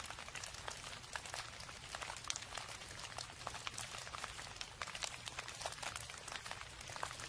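Rain falling, with a dense patter of individual raindrops ticking sharply and irregularly on a hard surface over a steady low hum.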